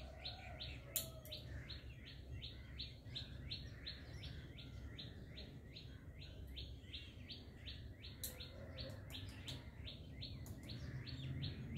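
A bird repeating a fast, even series of high downslurred chirps, about three or four a second, over a low steady rumble. A few faint sharp clicks come about a second in and again between eight and ten seconds in.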